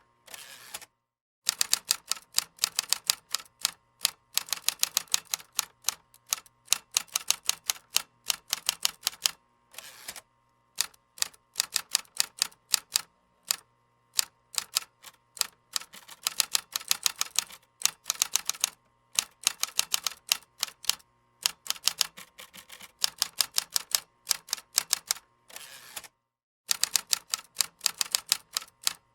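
Computer keyboard typing: fast runs of key clicks with short pauses between the runs.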